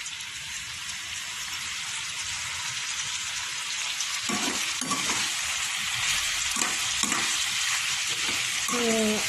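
Chicken gizzards for adobo sizzling in a hot pan, a steady frying hiss, after two hours of boiling. A few brief low sounds come about halfway through and near the end.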